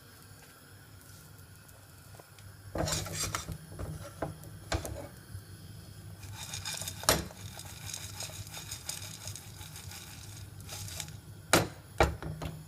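A metal pan of popcorn clattering and rattling on the stove as it is handled, with several sharp metallic knocks starting about three seconds in. The loudest knocks come near the end.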